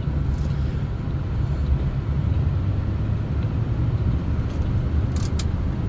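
Steady low rumble of a car driving, heard from inside the cabin, with two brief sharp ticks about five seconds in.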